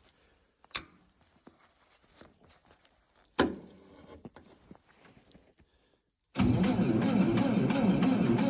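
Two sharp clicks, then about six seconds in a Lincoln SA-200 welder's engine is cranked over suddenly and loudly by its starter, with a steady pulsing rhythm, on a cold start at −20.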